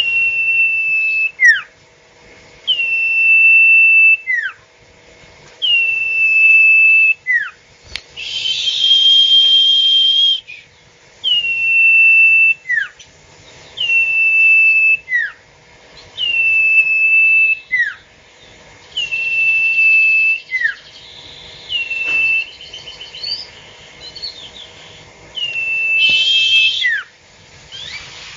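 A sirtu bird calling over and over without pause: each call is a held high whistle followed by a quick falling whistle, repeated about ten times, every two to three seconds.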